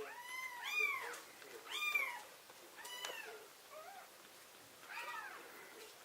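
Sphynx kitten mewing: a series of about five high-pitched meows, each rising and then falling in pitch, with a weaker one in between.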